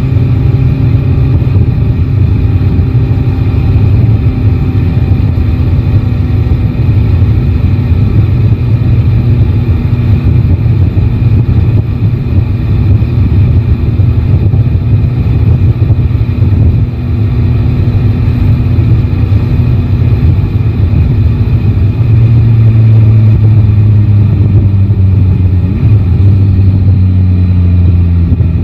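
Yamaha Tracer 9 GT's three-cylinder engine running steadily under way. Its note falls in pitch over the last few seconds as the revs drop.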